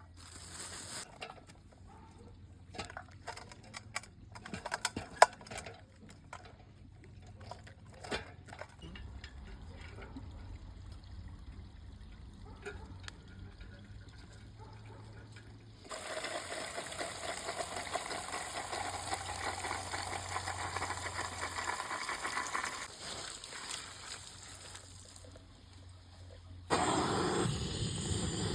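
Cooking sounds of a cauldron over a campfire: scattered sharp crackles and knocks at first, then, from about halfway through, a steady hiss of liquid trickling and bubbling. The sound changes abruptly to a louder rush a couple of seconds before the end.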